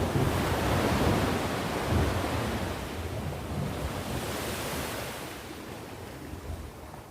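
Sea waves breaking and washing up the shore. A heavy rumble at the start fades away, with a hissing wash about four to five seconds in.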